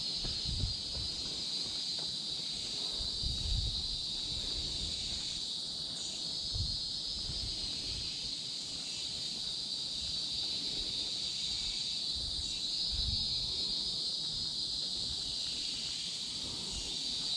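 A steady, high-pitched chorus of forest insects droning without a break, with dull low thumps now and then.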